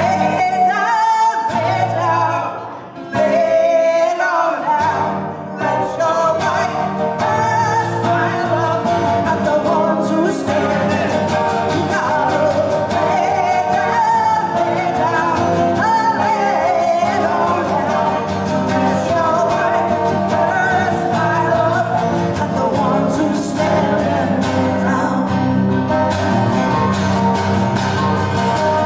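Woman singing with guitar accompaniment, a live song performance. After a short pause about three seconds in, the singing runs on continuously.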